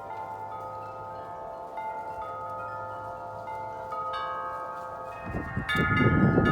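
Several large tuned wind chimes ringing in the wind, their long tones overlapping, with fresh strikes now and then. Near the end a strong gust comes through, with wind rumbling on the microphone and the chimes struck harder.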